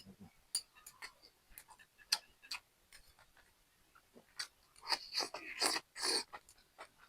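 A person chewing food close to the microphone, with irregular small clicks and smacks, busier about five seconds in.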